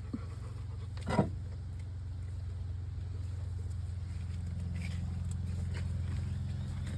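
An engine idling steadily with a low hum. About a second in there is a brief voice-like call.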